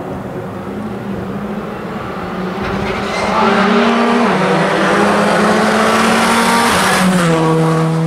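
Rally car engine running at high revs, growing much louder about three seconds in as it approaches. The engine note steps down in pitch twice.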